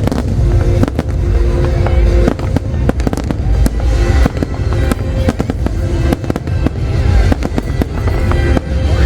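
A fireworks display going off without pause: rapid, overlapping bangs and crackles of bursting shells, with music playing underneath.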